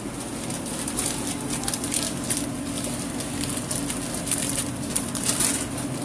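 Sandwich being made at a shop counter: irregular light clicks and crackles, several a second, over a steady low kitchen hum.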